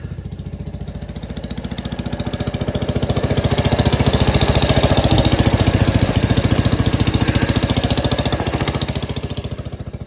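Gravely Commercial 10A walk-behind tractor engine running with an even firing pulse, driving the Dogeater snowblower; it grows louder through the middle and drops back near the end.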